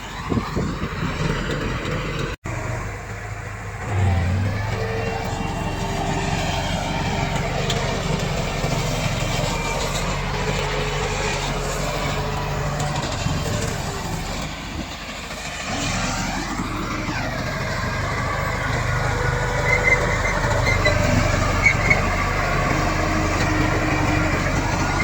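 Komatsu D68 bulldozer's diesel engine running under load as it works, its pitch rising and falling, with a brief drop-out about two and a half seconds in.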